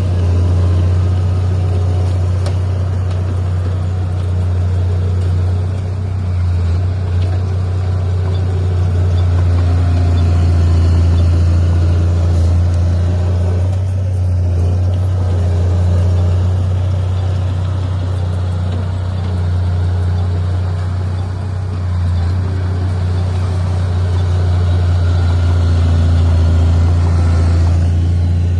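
Heavy earthmoving machine's diesel engine running steadily with a deep, low drone that swells a little now and then.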